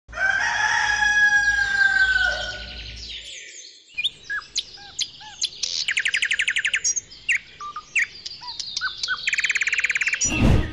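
Birds chirping and singing. The first few seconds hold long falling whistles, followed by short separate chirps and two rapid trills. A sudden loud rush of noise comes near the end.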